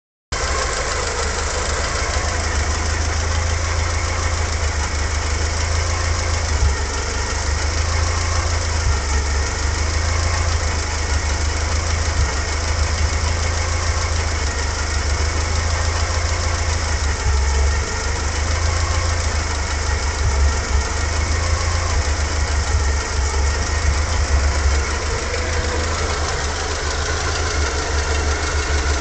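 Fiat Coupé's naturally aspirated 16-valve Lampredi four-cylinder engine idling steadily, running on bad, old oil.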